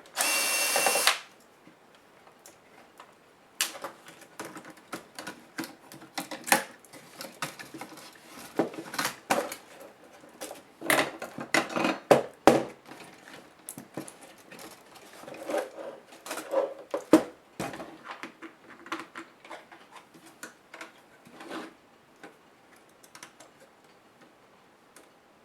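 A powered screwdriver runs for about a second, then a long irregular run of small clicks, taps and rattles as HP DV8000 laptop parts and screws are handled during disassembly, thinning out near the end.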